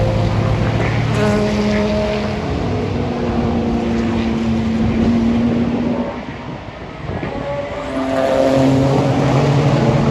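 Race car engines running at high revs as cars pass on a circuit, the engine notes stepping in pitch. The sound drops briefly about six seconds in before another car comes through.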